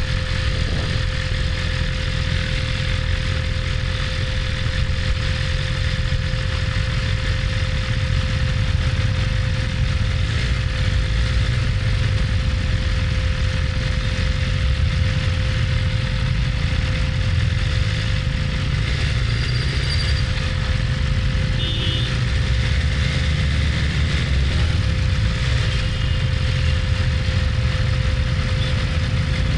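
BMW S1000RR's inline-four engine running steadily with no revving, under a low rumble.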